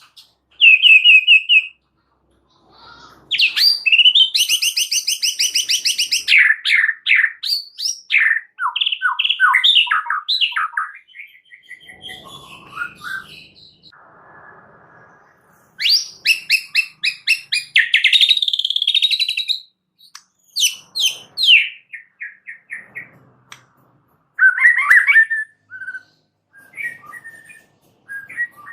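White-rumped shama (murai batu) singing a varied, loud song: fast trills, sweeping whistles and rapidly repeated notes in short phrases with brief pauses between them, with a quieter, buzzier stretch about halfway through.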